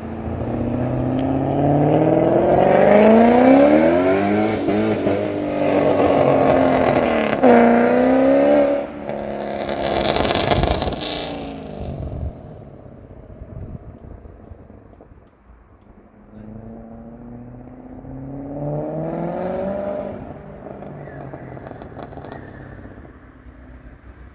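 BMW 540i E39 V8 running through an aftermarket MG Motorsport exhaust, revving hard with the note climbing and falling several times over the first dozen seconds. It then drops back, rises in one more rev about two-thirds of the way through, and settles lower.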